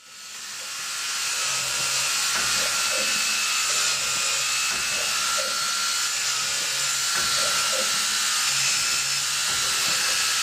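Maggi GT800 CNC boring machine running, a steady high-pitched whir from its drill spindle motors, with short low hums coming and going. The sound fades in over the first second or two.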